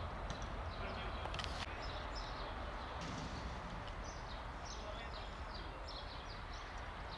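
Small birds chirping over and over in quick series, over a steady low rumble of open-air background noise.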